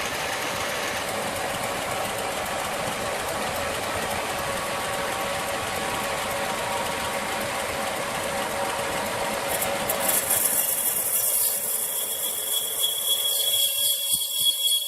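An engine running steadily. About ten seconds in, it gives way abruptly to a higher hiss with a steady high whine.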